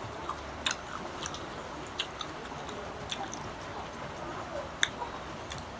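Close-up crunching of unripe green mango being bitten and chewed, with several sharp, crisp crunches at irregular intervals.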